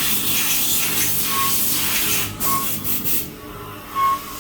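CNC machine working aluminium, with a steady spraying hiss that breaks off about two and a half seconds in, followed by a few short spurts. Brief faint high tones recur every second or so.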